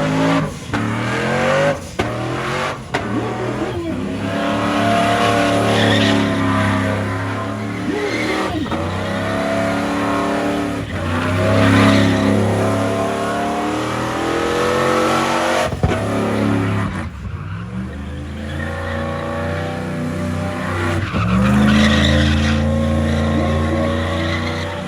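Truck engine revving hard again and again, its pitch climbing and dropping in repeated swells, with tires spinning and squealing in a burnout.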